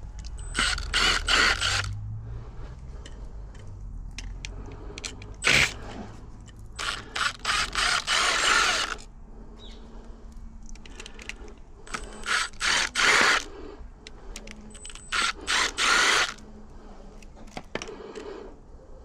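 Cordless drill-driver with a Pozidriv bit run in short bursts of several trigger pulses at a time, with a high motor whine, driving screws on a uPVC door lock gearbox.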